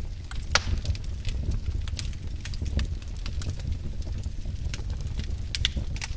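Wood fire crackling in a fireplace: irregular sharp pops and snaps over a steady low rumble, with louder pops about half a second in and near the end.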